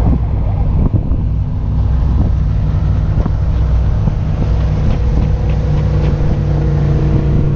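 Jet boat's engine running steadily under way, with wind noise on the microphone. About halfway through, the engine note settles into a clearer, steadier hum.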